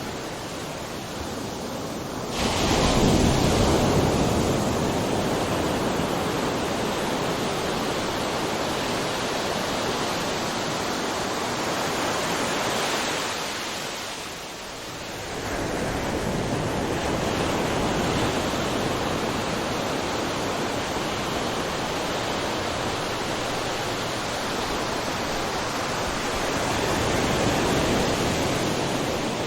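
Ocean waves breaking on a shore: a wave crashes about two seconds in and washes on, the surf ebbs briefly near the middle, then builds and washes again with another swell near the end.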